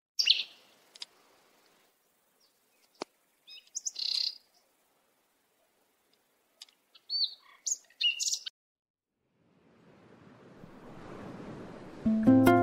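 Birds chirping, a few short high calls in three small clusters separated by quiet. Near the end a rising hiss swells and plucked-string music comes in.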